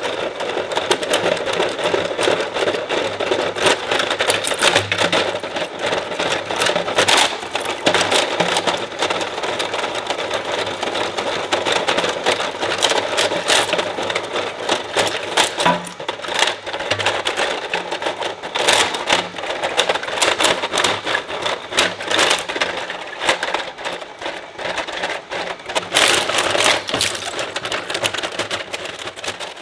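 Industrial shredder running with a steady motor hum while its blades crunch and snap plastic: a dense, rapid crackle with louder cracks every few seconds.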